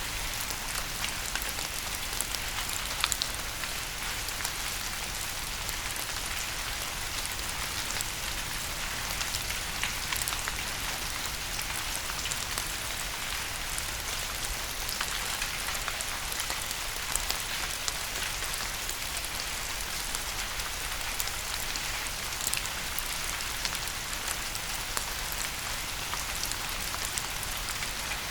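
Steady rain falling: a dense, even hiss sprinkled with many sharp ticks of single drops.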